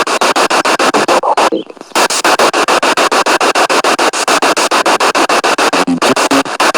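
Spirit box radio sweeping through stations: hissing static chopped into rapid pulses, about ten a second, with a brief lull about one and a half seconds in.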